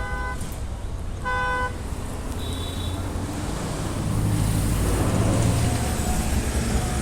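Road traffic running with a steady low rumble, with two short vehicle-horn toots in the first two seconds and a vehicle passing louder around the middle.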